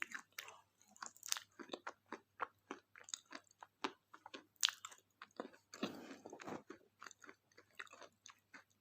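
Close-up chewing of a KitKat chocolate wafer bar, a steady run of sharp crunches and crackles, thicker for a moment about six seconds in.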